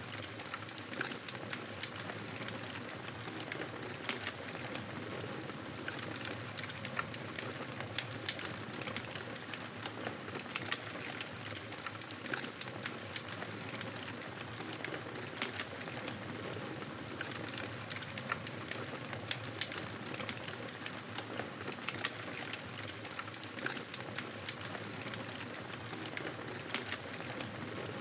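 Wood fire crackling steadily: a constant hiss of burning with frequent, irregular sharp pops and snaps.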